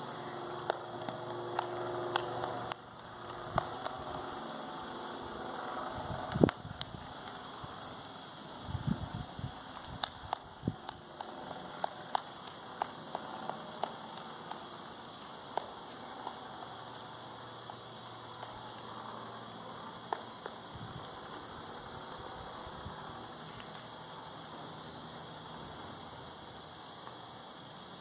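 Wood campfire with chorizo grilling over it: a steady hiss with scattered sharp pops and crackles, most of them in the first half and the loudest about six seconds in.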